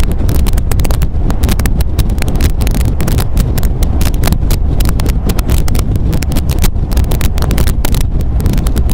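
MGA sports car's four-cylinder engine and exhaust running under way with a fast, even pulsing, with wind buffeting the microphone.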